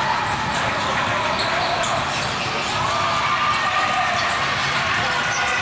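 Basketball game sounds in a gym: a ball bouncing on the hardwood court amid a steady din of players' and spectators' voices, with short sharp ticks and squeaks from play.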